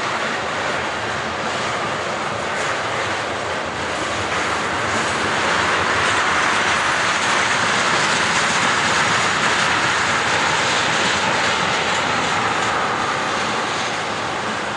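Freight train of tank cars rolling past: a steady noise of steel wheels on the rails, swelling somewhat in the middle.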